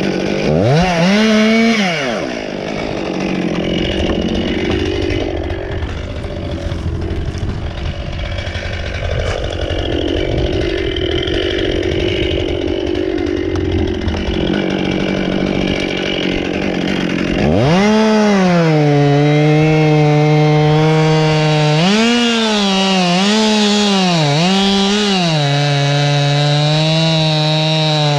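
Chainsaw revving up and dropping back, then running at high speed through a cut from a little past halfway, its note dipping several times as the chain bites into the wood.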